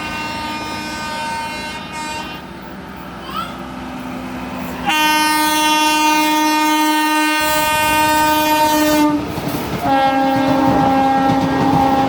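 Train horn sounding three times over the noise of a passing train: a short blast, then a long, louder blast of about four seconds, then a third blast a little lower in pitch.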